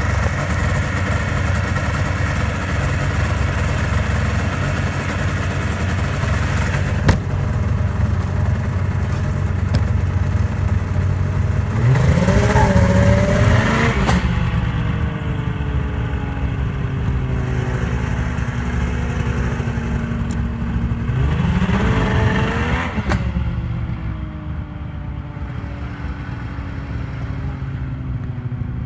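Yamaha SRX 700 snowmobile's three-cylinder two-stroke engine running, with one sharp bang about seven seconds in. The engine is revved up and let back down twice, near the middle and about two-thirds of the way through. The bang is the noise the owner is chasing, which he links to the belt being pushed down into the secondary clutch.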